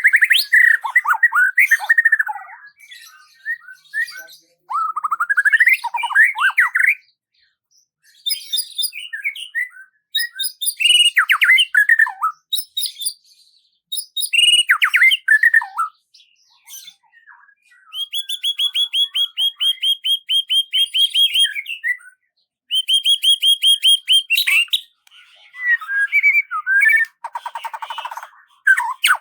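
A songbird singing a varied song in phrases with short pauses between them: slurred whistled notes, then long rapid trills, and a lower buzzy trill near the end.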